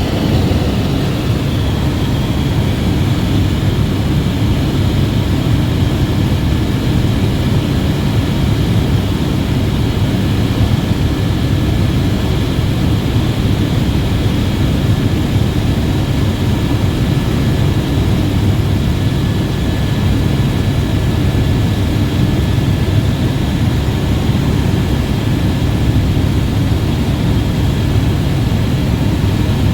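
Helicopter in flight: a steady, loud drone of rotor and turbine engine with a faint high whine over it.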